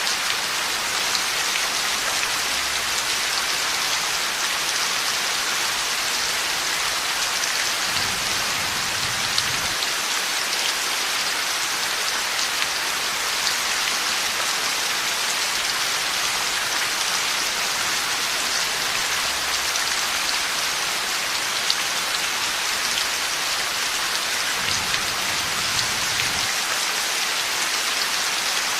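Heavy rain falling steadily as a dense hiss, with two low rumbles of distant thunder, about eight seconds in and again near the end.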